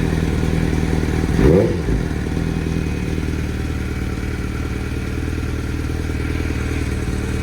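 2006 Suzuki GSX-R600's inline-four engine idling, being run after a coolant refill. It is blipped once about a second and a half in, the revs rising and falling straight back to a steady idle.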